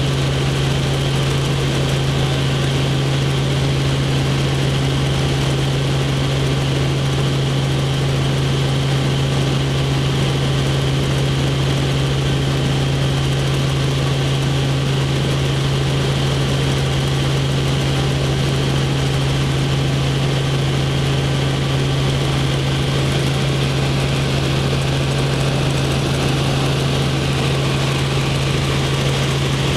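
Helicopter in flight heard from inside the cabin: the engine and rotor make a steady, unbroken drone with a strong low hum.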